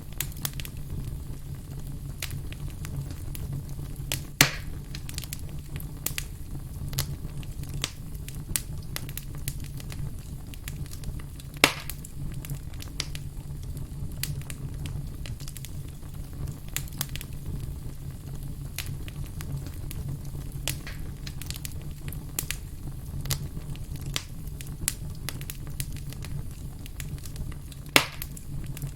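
Wood campfire crackling, with frequent small snaps over a low steady rumble. Three louder pops stand out: about four seconds in, near the middle, and near the end.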